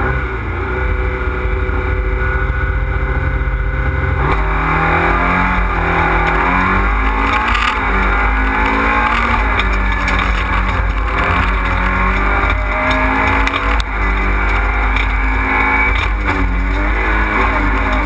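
Fiat Panda rally car's engine heard from inside the cabin, held at steady revs for about four seconds, then pulling hard with the pitch climbing and dropping back again and again at each gear change as the car accelerates along the stage.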